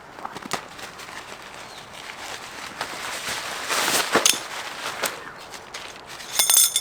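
Tarp setup: nylon tarp and gear being handled, with rustling, a few sharp knocks and clicks, and a short rapid rattle near the end.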